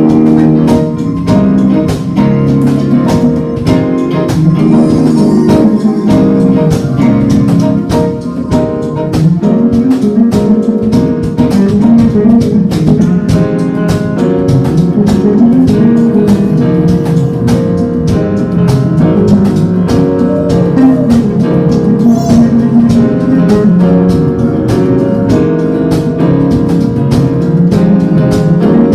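A band playing a song: guitar over a steady drum beat, with no singing.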